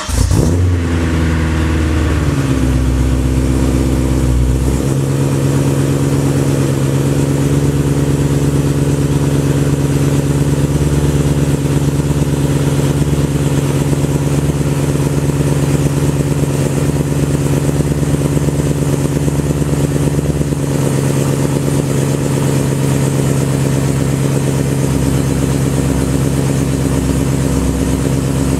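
BMW E92 M3's V8 on a cold start, heard through Remus race mufflers and Eisenmann connecting pipes. It catches, settles in the first few seconds, then runs at a steady idle.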